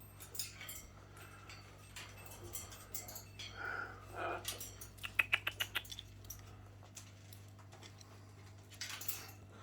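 Small pet parrots making short chirps and clicks, with a quick run of clicks about five seconds in.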